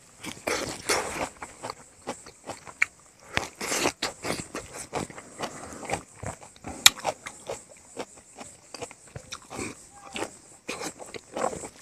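Close-up eating sounds of a man chewing a mouthful of pork, rice and greens: irregular smacking and clicking of lips and mouth, with one sharper click about seven seconds in.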